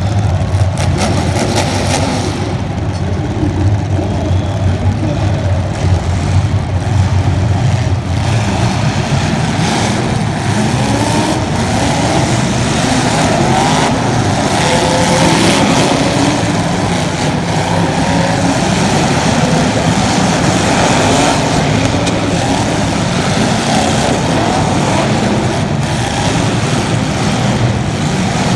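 Racing engines running hard, with revs rising and falling continuously and several engine notes overlapping in a steady din.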